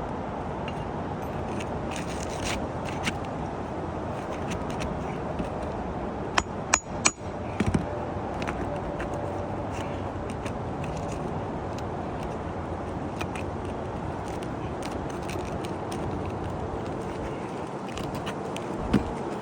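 Hands and tools working on roof shingles: scattered scraping and light taps, with three sharp knocks in quick succession about six and a half seconds in and one more near the end, over a steady hiss of wind.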